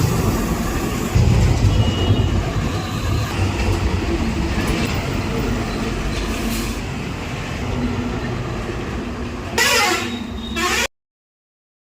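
Vehicle engine running with steady road noise. Near the end there is a brief louder burst, and then the sound cuts out abruptly to silence.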